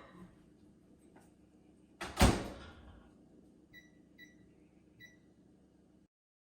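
Microwave oven door shutting with a sharp bang about two seconds in, followed by three short keypad beeps as the cooking time is entered.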